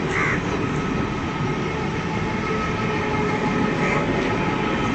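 Passenger train coaches running past a platform, a steady rolling noise of wheels on rail. A crow caws right at the start and once more near the end.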